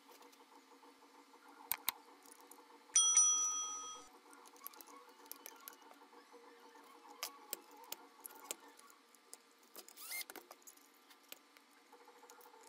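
A single electronic beep about three seconds in, lasting about a second and fading out, over a faint steady hum and scattered small clicks.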